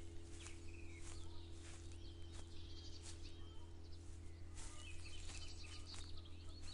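Small birds chirping and calling in short, repeated notes, with steady footsteps about every two-thirds of a second from someone walking. A constant low hum runs underneath.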